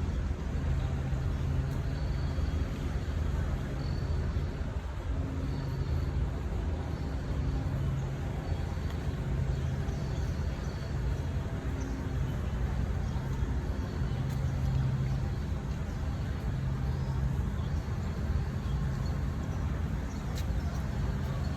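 Steady low rumble of city road traffic, with engine hum from passing vehicles that swells and fades every second or two.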